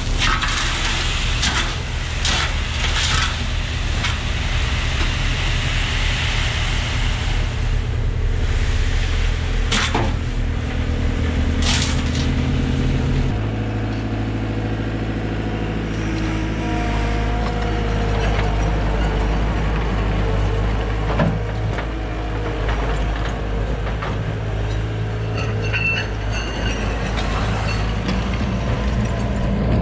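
Heavy diesel engine running steadily, its note shifting about thirteen seconds in. A hiss runs through the first several seconds, and a few sharp knocks come through.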